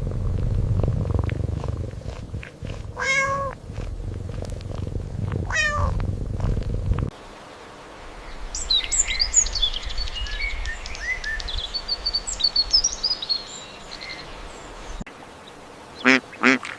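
A domestic cat purring, with two meows about three and about six seconds in. After a cut come a run of high chirps, and near the end a duck starts quacking.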